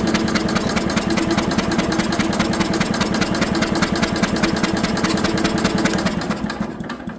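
Electric starter cranking the Allis-Chalmers B210 garden tractor's single-cylinder engine, a rapid, even beat that never catches and dies away near the end. The engine has no spark because its ignition coil is unplugged.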